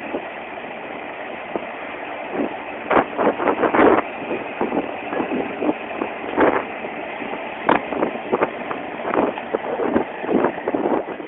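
Storm-debris cleanup: a steady vehicle or machine noise runs throughout, and irregular knocks and clatter start about two and a half seconds in.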